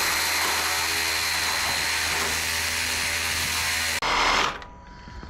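Cordless reciprocating saw running steadily as it cuts a chunk off an air-conditioner unit. It stops abruptly about four seconds in.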